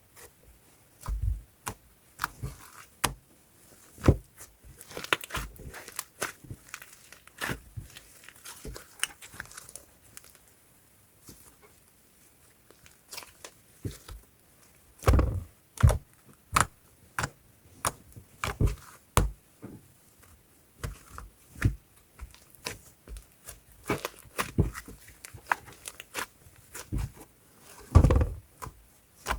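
Fluffy slime being squished and stretched by hand, giving irregular sticky pops and clicks with short quiet gaps. A louder cluster comes about halfway through and another near the end.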